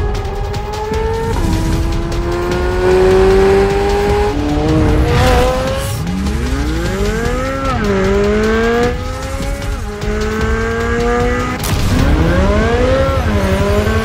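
2023 Chevrolet Corvette Z06's flat-plane-crank V8 revving hard through the gears on track. The pitch climbs steadily and drops at each upshift, with quick sharp swoops of the revs up and down around the middle and near the end.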